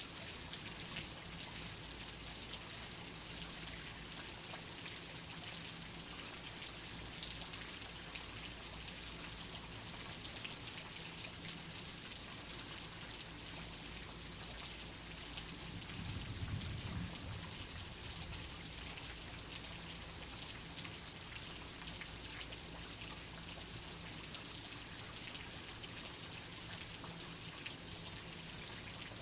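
Steady rain with a fine patter of drops. A single brief, soft low rumble of thunder comes a little past halfway.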